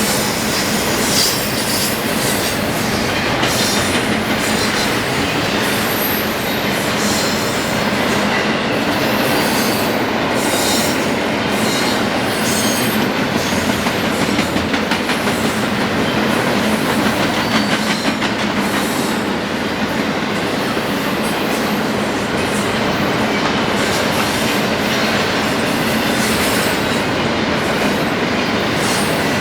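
Train cars rolling past, a steady loud rumble of steel wheels on rail with intermittent high-pitched wheel squeal.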